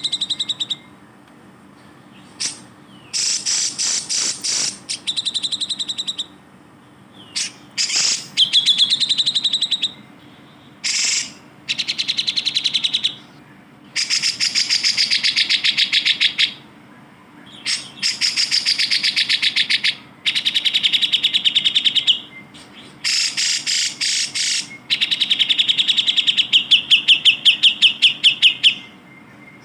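Grey-cheeked bulbul (cucak jenggot) singing: repeated bursts of rapid chattering notes, each a second or two long, with short pauses between them.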